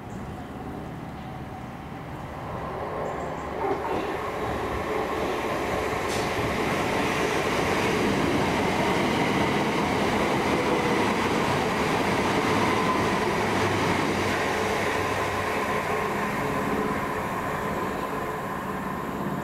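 Southern Class 377 Electrostar electric multiple unit running along the platform past the listener: rumble of wheels on rail and running gear. It grows louder a few seconds in, holds through the middle, and eases slightly near the end.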